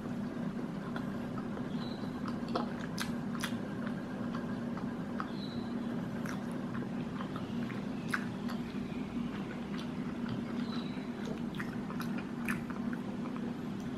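Close-up chewing of a bite of Spicy McChicken fried chicken patty, with scattered sharp mouth clicks every few seconds. A steady low hum runs underneath.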